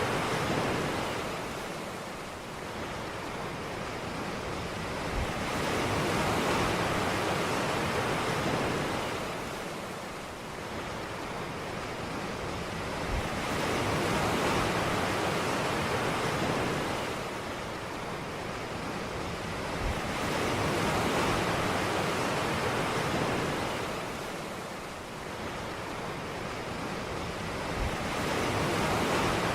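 Ocean surf on a beach: waves breaking and washing in, the hiss of water swelling and fading about every seven seconds.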